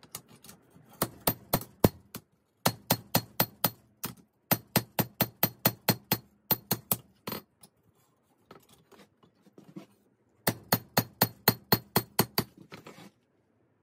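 Hammer blows on the 5160 spring steel blade at the anvil, with bright ringing strikes coming in quick runs of about five a second and short pauses between runs. Fainter taps come in the middle of the run, and the hammering stops near the end.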